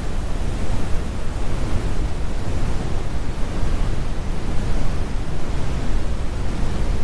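Heavy brown noise: a steady, deep rumbling hiss, weighted toward the lows with little high end, unchanging throughout.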